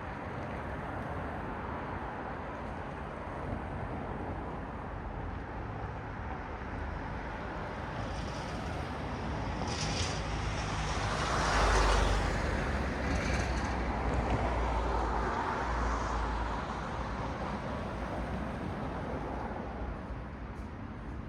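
Road traffic: a steady wash of passing cars' tyre and engine noise, with one vehicle passing close about halfway through, the loudest moment, and another passing soon after.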